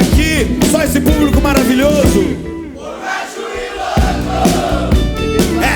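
Live rock band playing loud. About two and a half seconds in the band briefly drops out, leaving group voices, and the full band comes back in at about four seconds.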